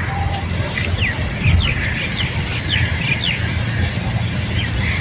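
Small birds chirping in quick short notes that fall in pitch, over a steady low rumble.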